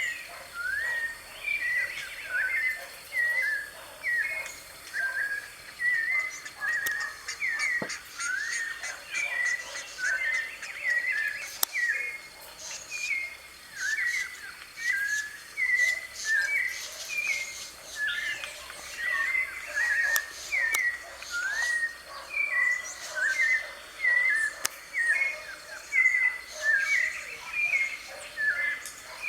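White-necked thrush (sabiá-de-coleira) singing: a steady stream of short whistled notes that glide up and down, several a second, with fainter high chirps above them and a thin steady high tone behind.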